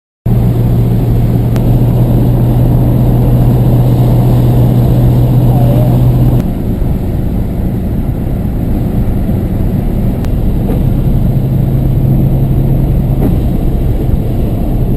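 Car driving, heard from inside: steady low engine and road rumble, with a low drone that drops away about six seconds in and returns near the end.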